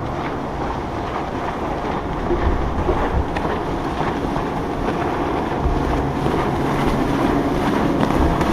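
Boat engine running through the inlet, a steady drone that grows slightly louder near the end, with wind buffeting the microphone and surf underneath.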